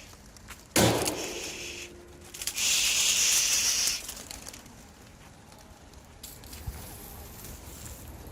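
Homing pigeons' wings flapping: a sudden crackling flurry about a second in that fades, then a louder whirr of wingbeats for about a second and a half, then quieter flutter.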